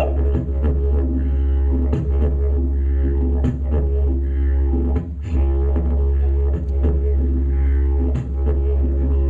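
Didgeridoo playing a continuous low drone with shifting overtones and regular rhythmic accents, with a brief drop in level about five seconds in.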